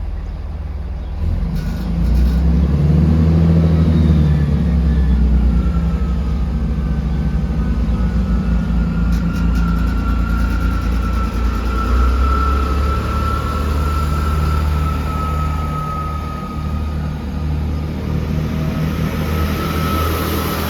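Great Western Railway diesel multiple unit pulling out of the station: its engines open up about two seconds in and keep running under load, with a steady high whine over the engine note.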